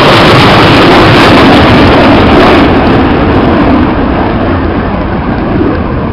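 Very loud jet roar of a Panavia Tornado GR4 flying past, slowly fading from about halfway through as it moves away.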